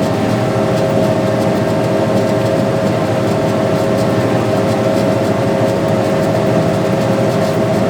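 Tractor engine running steadily while pulling a planter, a constant loud drone with a steady whine, heard from a phone mounted on the tractor.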